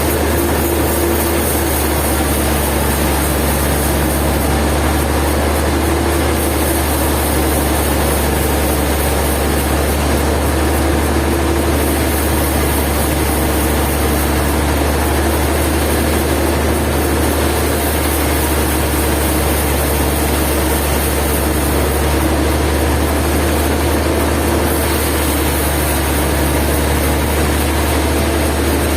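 Sawmill machinery running steadily: a constant low engine hum, with no change in pitch or level.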